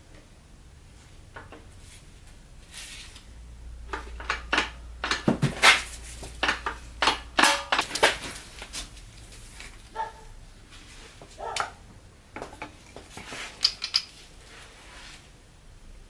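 Irregular metallic clinks, taps and knocks of metal parts being handled and set down, some with a brief ring. They come thickest in the middle, with a few more spread near the end.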